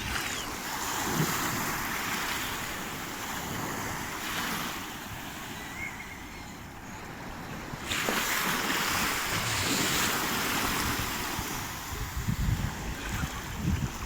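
Small sea waves washing onto the shore, their hiss swelling twice. Wind buffets the microphone in low gusts near the end.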